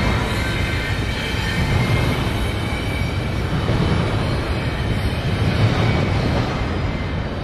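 Double-stack container train rolling across a steel girder bridge: a steady, heavy rumble of wheels on the span, with faint high ringing tones for the first three seconds or so.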